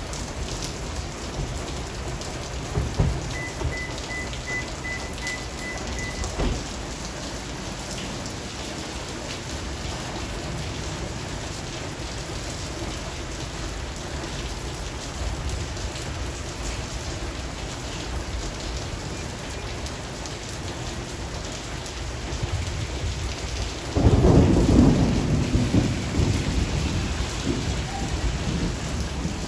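Steady rain falling throughout, with faint low thunder rumbles early on. Near the end a loud roll of thunder breaks in suddenly and keeps rumbling.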